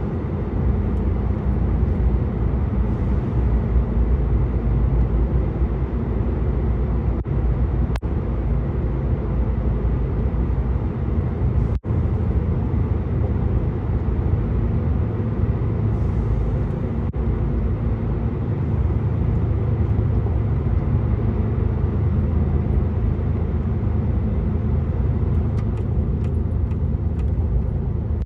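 Truck engine and tyre-on-road noise at a steady cruising speed: a low, even rumble that hardly changes. There is a momentary drop in the sound about twelve seconds in.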